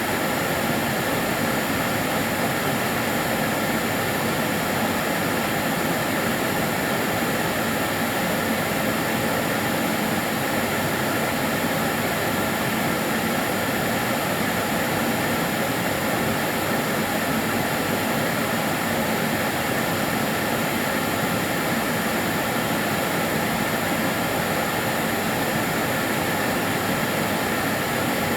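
Karcher DS 6 Premium water-filter vacuum cleaner running steadily: an even, unbroken rushing noise of its motor and airflow, with faint steady high whines.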